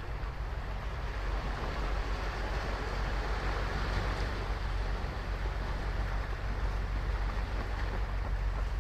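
Ocean surf breaking and washing up a sandy beach in a steady rush, swelling a little around the middle, with a deep rumble underneath.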